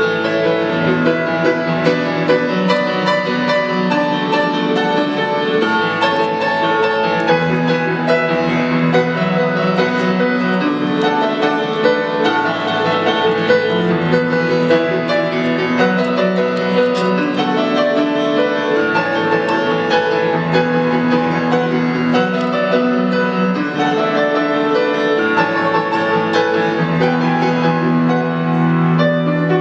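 Piano music: a continuous run of notes over a repeating bass line, played without pause.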